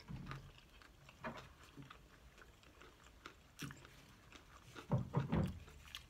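Close-miked chewing of fried chicken with the mouth closed: soft, scattered wet smacks and clicks, with a louder cluster of mouth sounds about five seconds in.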